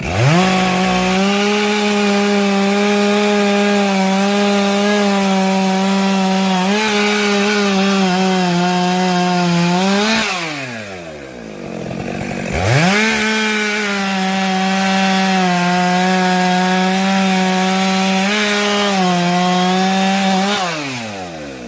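Two-stroke engine chainsaw cutting through firewood logs: the engine runs steadily under load for about ten seconds, revs up briefly as the cut finishes, then drops to idle. It is throttled back up for a second cut of about eight seconds that ends the same way near the end.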